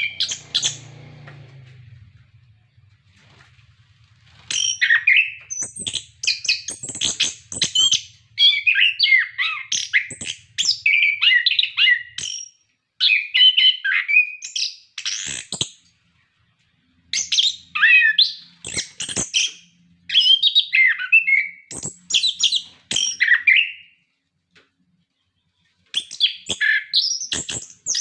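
Orange-headed thrush singing in fast runs of varied, sharp whistled phrases, starting a few seconds in and broken by short pauses.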